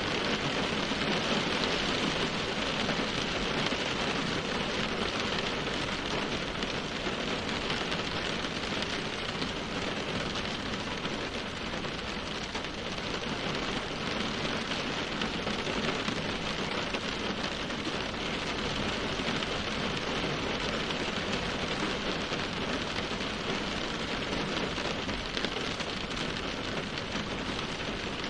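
Steady rainfall, an even, continuous hiss of rain falling on surfaces with no breaks.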